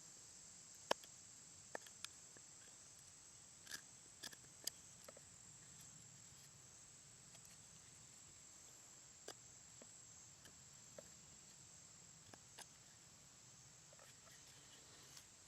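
Near silence: a faint, steady high chirring of insects with scattered small clicks and taps, the sharpest about a second in.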